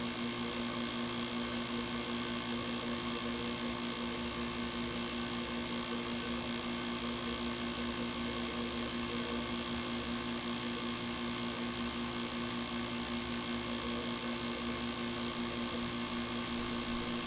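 Window air conditioner running with its rotary compressor on, a steady unchanging hum with a hiss above it, as the unit builds toward cooling.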